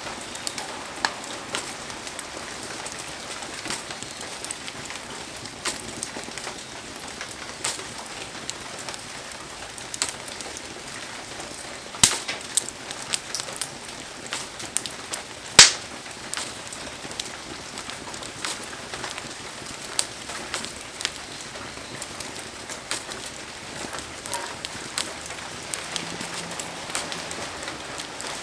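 Steady hiss of heavy rain falling over a wood fire, with scattered crackles and pops from the burning wood; two sharp pops stand out around the middle.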